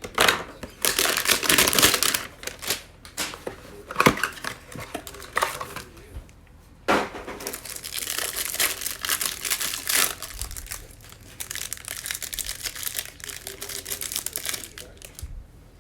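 Plastic wrapping crinkling and tearing in irregular bursts as a trading card hanger box is opened.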